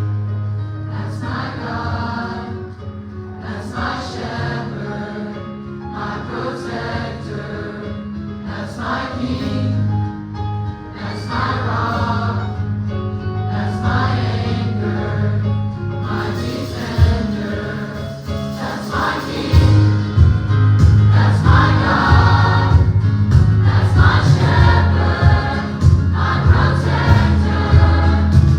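Gospel choir singing a worship song with a band. About two-thirds of the way in, the bass and drums come in harder and the music grows louder.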